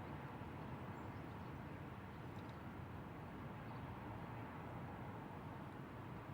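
Steady, faint outdoor background hum, with a few brief, faint distant bird chirps high above it.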